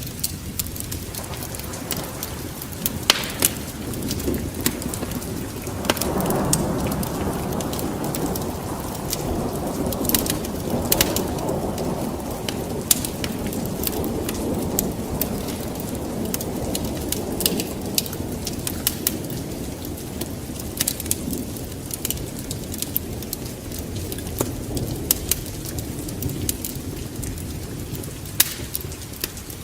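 Steady rain with a thunder rumble that swells about six seconds in and slowly dies away. Sharp pops and crackles are scattered throughout.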